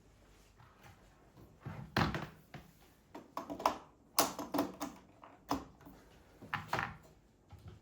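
Irregular knocks and thuds from household objects being handled, about a dozen short impacts, several in quick pairs.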